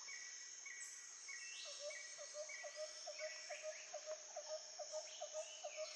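Faint nature ambience of insects and birds: a steady high insect drone, a run of short repeated chirps in the first half, then from about two seconds in a quick series of short repeated calls, about three a second.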